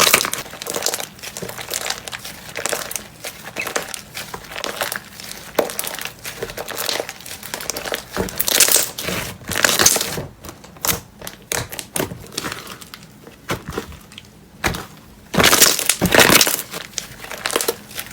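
Slime being squeezed and pressed by hand, making irregular crackling, crinkly pops. Louder spells come about halfway through and again near the end.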